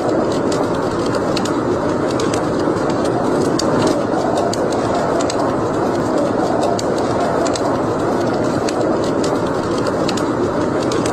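Wood fire burning in a fireplace: a steady rushing sound with scattered sharp crackles and pops.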